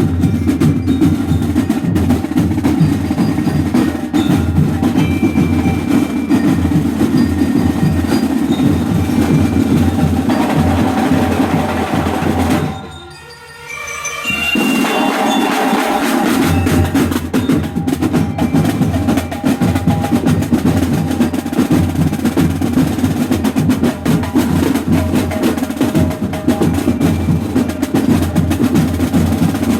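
Banda de guerra drum line playing a fast, dense snare drum cadence. The drumming breaks off briefly about halfway through, then starts again.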